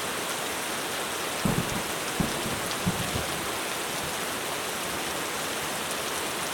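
Heavy rain falling steadily on a roof, with a few brief low rumbles of distant thunder between about one and a half and three seconds in.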